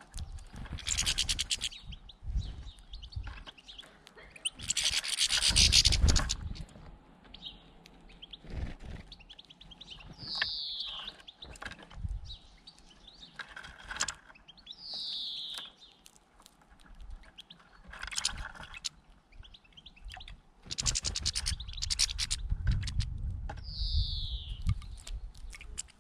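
Small birds calling: three short whistled notes that each slide downward, spaced several seconds apart, between loud bursts of rustling noise.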